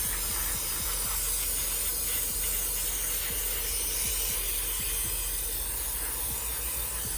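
Aerosol can of carburettor cleaner spraying in one long, steady hiss.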